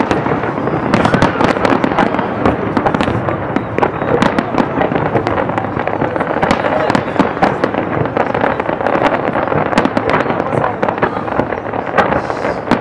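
Fireworks display: many aerial shells bursting and crackling at once, a dense, continuous run of sharp pops and cracks.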